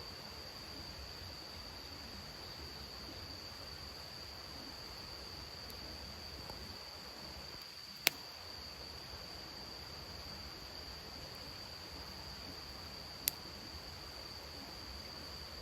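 An insect, cricket-like, trilling steadily on one high pitch, with two sharp clicks, one about eight seconds in and a fainter one about thirteen seconds in.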